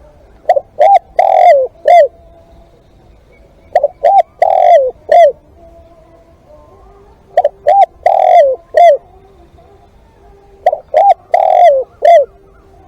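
Spotted dove cooing loudly. Four calls come at intervals of about three and a half seconds. Each call is two quick notes, then a longer drawn-out note, then a final short note.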